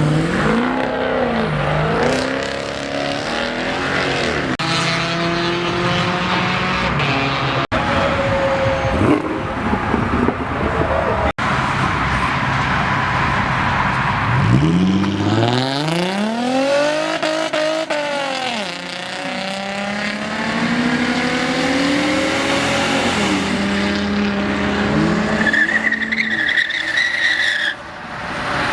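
Car engines revving hard and accelerating, their pitch sweeping up and falling back several times as different cars pull away, with a short high tyre squeal near the end.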